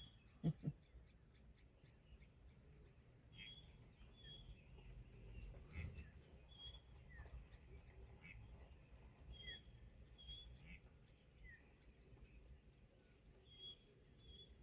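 Near silence, with faint short bird chirps, one high note, repeating every second or few throughout.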